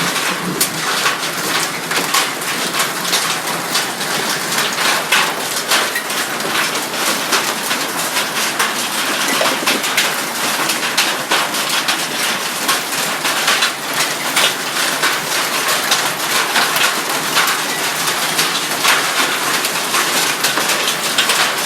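Hailstones pelting down in a steady, dense clatter of countless small hits.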